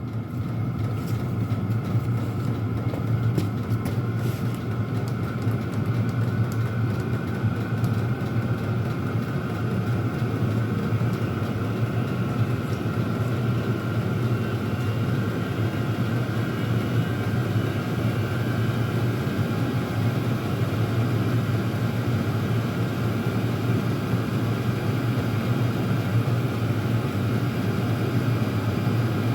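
Chinese diesel air heater running on its high setting: a steady, unchanging hum from the combustion blower and burner, with a faint steady whine above it.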